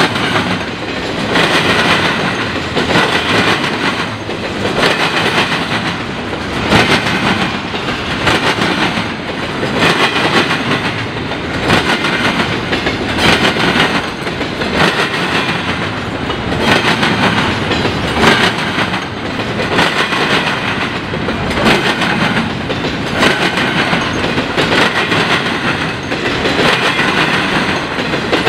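Northbound CN freight train's wheels banging across a railroad diamond crossing. The clatter comes in a steady rhythm, with a heavy pound every second or two as each set of wheels hits the crossing frogs.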